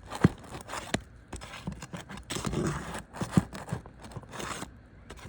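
Flat pry bar working under asphalt roof shingles to pull a roofing nail: scattered sharp clicks and knocks with short scraping rasps.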